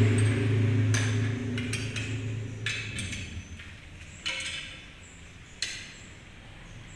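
A low machine hum dies away over the first three seconds, then a few separate metallic clinks and knocks, as of tools or parts set down on metal, ring out briefly.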